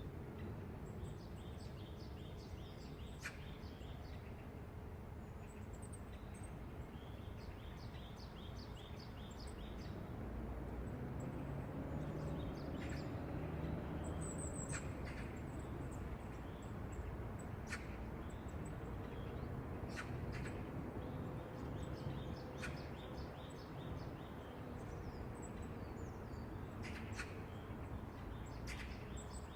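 Morning city ambience: a steady low traffic rumble that swells for a while in the middle as a vehicle passes, with small birds chirping and trilling over it again and again.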